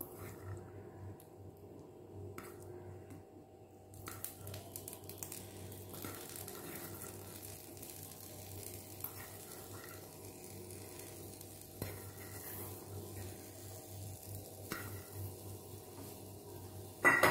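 Dosa sizzling faintly on a hot pan while boiled sweet corn kernels are dropped onto it by hand, with small light ticks as they land. A short, sharp clatter comes near the end.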